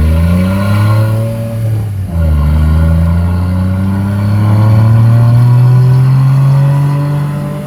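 Vehicle engine accelerating: the pitch climbs, drops sharply about two seconds in as it shifts up a gear, then rises again steadily and eases off near the end.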